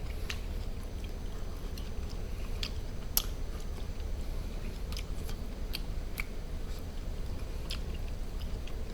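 A person chewing food close to the microphone: scattered small mouth clicks over a steady low hum.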